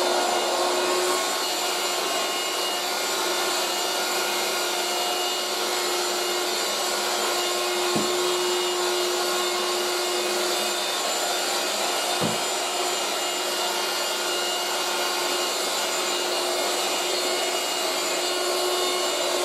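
1980s Moulinex 237/320 handheld vacuum cleaner running steadily with its scrubbing brush attachment being pushed across the floor. Its motor and airflow make a constant rushing sound with a steady hum under it, and there are two short knocks of the brush head, about eight and twelve seconds in.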